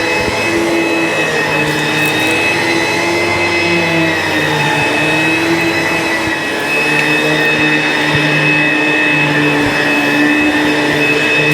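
ProTeam ProForce 1500XP upright bagged vacuum cleaner running steadily, its motor whine wavering slightly in pitch as it is worked over the floor.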